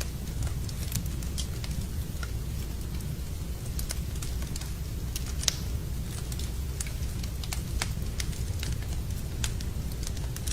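Wood fire burning in a fireplace, crackling with irregular sharp pops over a steady low rumble; one louder pop comes about halfway through.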